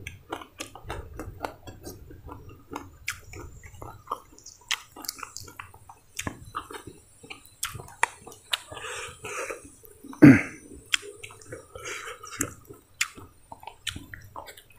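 Close-miked chewing of crispy, slightly burned rice (jola bhat), with wet mouth smacks and many small crunchy clicks. About ten seconds in there is one loud, short throat sound that falls in pitch.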